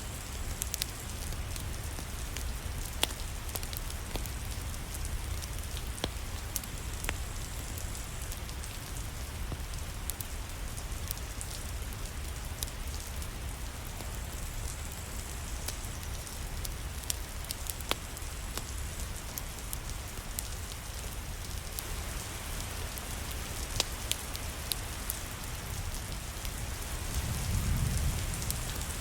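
Steady rain, an even hiss dotted with scattered sharp crackles and ticks. A low rumble swells briefly near the end.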